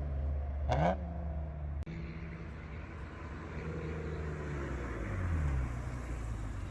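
Honda NSX NA2's 3.2-litre V6 through a Pride V2 exhaust and high-flow cats, its note falling in pitch as the car eases off or passes. About a second in there is a brief sharp rising sound, and after a short break the engine note falls again.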